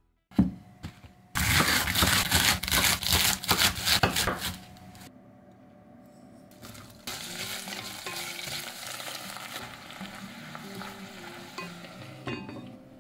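A loud crackling, clattering noise for a few seconds, then a quiet pause. Then leafy greens sizzle steadily in sesame oil in a cast-iron Staub pot, and there is a short clink of the lid near the end.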